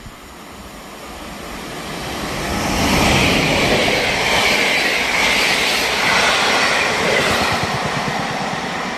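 Locomotive-hauled passenger train approaching and passing close by. Its wheel and rail noise grows louder over the first three seconds, then runs loud and steady as the coaches go past.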